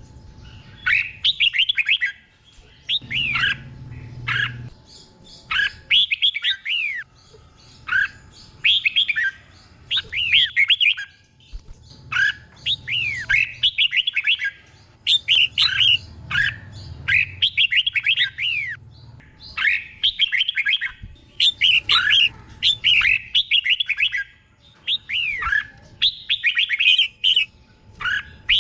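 Red-whiskered bulbul singing a run of short, quick whistled phrases of down-slurred notes, one burst every second or two, with phrases doubled in the style of a trained 'teacher' bird.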